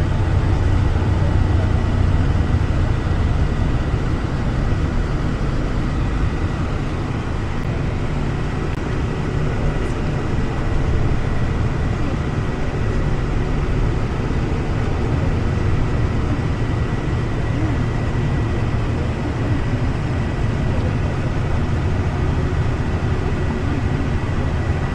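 A moving train running steadily: a continuous low rumble and rush of wheels and air, with a thin steady high whine above it.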